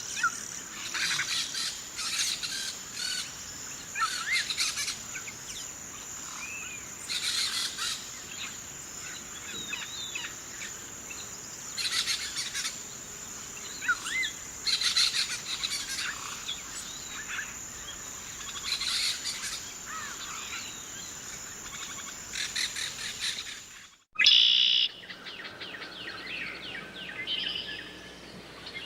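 Birds chirping and calling in repeated short bursts over a steady, high-pitched insect trill. About 24 s in the sound cuts out abruptly and switches to a different bird chorus without the trill, with a faint low hum under it.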